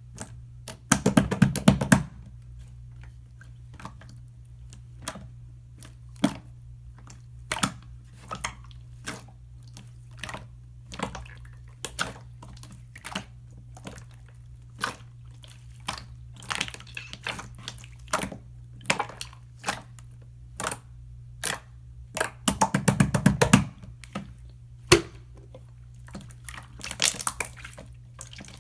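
Slime being squeezed, poked and stretched by hand, giving scattered wet clicks and small air-bubble pops. Two bursts of rapid crackling pops, about a second in and again about two-thirds of the way through, over a steady low hum.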